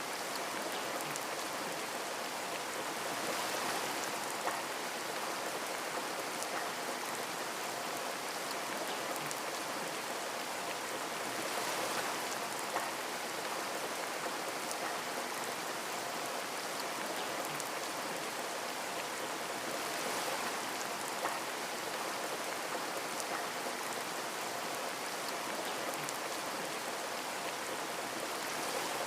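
Steady rain pattering on a window, with gentle swells in intensity and an occasional louder drop tick.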